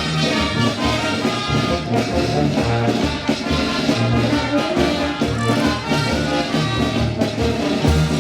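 Brass band playing marinera norteña, with a steady beat of low bass notes under the horns.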